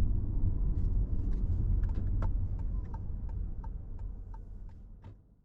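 Low road rumble inside a car's cabin, fading away, with a turn-signal indicator ticking about three times a second from about two seconds in; the sound cuts off just before the end.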